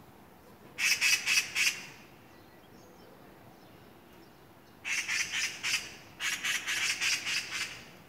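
A bird calling in three bursts of rapid repeated notes: about a second in, near five seconds, and again just after six seconds, the last burst the longest.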